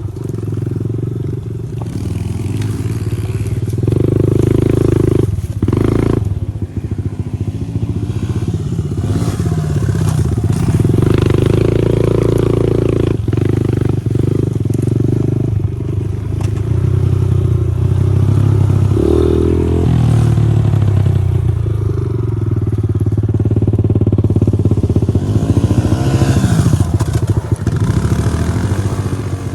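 110cc pit bike engine being ridden, its note rising and falling with the throttle.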